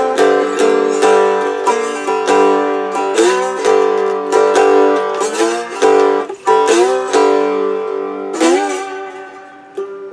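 Homemade cigar box guitar played with a slide: plucked notes with gliding slides between them, a few notes slightly off. The last note rings and fades near the end.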